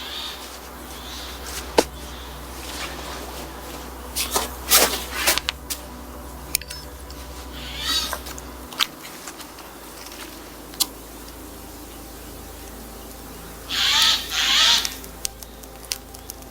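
Sharp snaps and clicks of wood at a campfire being built, with a cluster of snaps about four to five seconds in. An animal call with a wavering pitch sounds briefly about eight seconds in and again, louder and in two parts, about fourteen seconds in.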